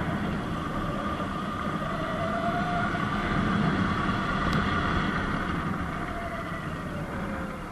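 Sur-Ron Light Bee X electric dirt bike riding along, its motor whine rising and falling in pitch with speed over a steady rush of wind and tyre noise on the dirt road.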